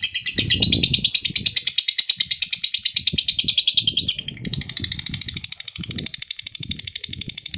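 Lovebird giving a long ngekek: a rapid, unbroken chattering trill of many notes a second, dropping slightly in loudness about four seconds in.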